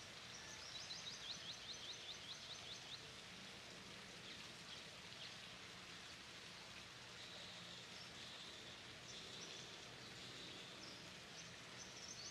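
Faint outdoor ambience: a small bird chirping, with a fast run of about ten high chirps (about five a second) a second or so in, and further short high calls later and near the end, over a steady background hiss.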